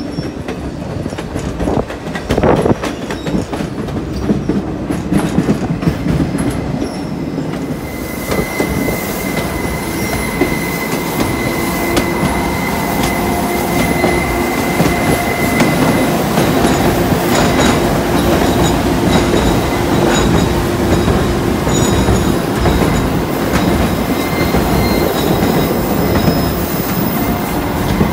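White Pass & Yukon Route narrow-gauge passenger train running, heard from a car's open platform: a steady rumble and clatter of wheels on the rails. About a third of the way in, the wheels begin a steady high squeal as the train rounds a curve, fading out after the middle.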